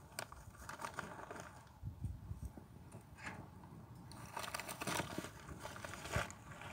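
Campfire crackling with scattered sharp pops, under a gusty low rumble of wind on the microphone.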